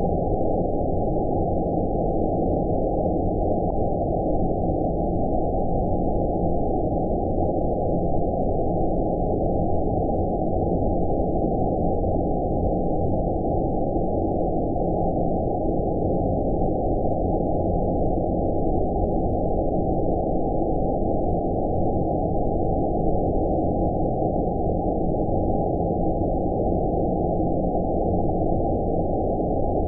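Steady 'outer space' sleep noise: an even, deep rushing noise with all of its sound low in pitch and no high hiss, unchanging throughout.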